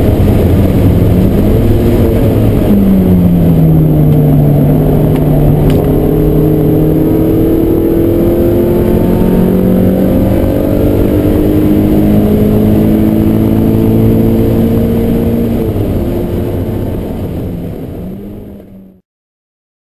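Mazda MX-5's four-cylinder engine under load at speed, heard from inside the cabin with road and wind noise; the engine note drops sharply about three seconds in, as at a gear change, then climbs slowly as the car accelerates. The sound fades out and cuts off shortly before the end.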